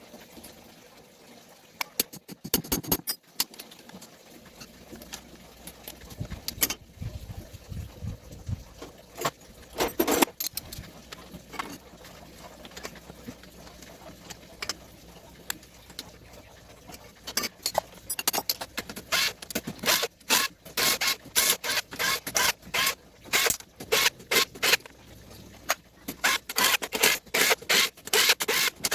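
Metal tools and transmission parts clinking and rattling as they are handled: scattered sharp clicks at first, becoming a quick run of clicks through the second half.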